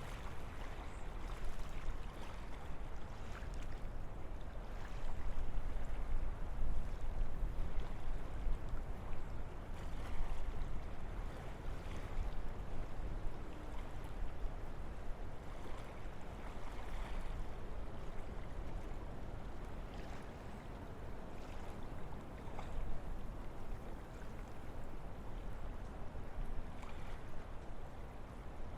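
Wind blowing through forest trees: a steady rushing sound with a deep rumble underneath, swelling in a stronger gust about five seconds in and easing off after about ten seconds.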